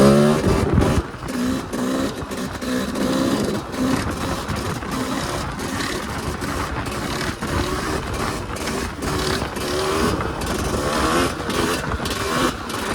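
Yamaha YZ250 single-cylinder two-stroke dirt bike engine under way, its pitch rising and falling with the throttle. It is loudest in a hard rev at the start.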